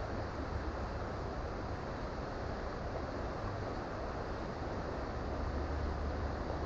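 Creek water running steadily, a continuous rushing over a low rumble.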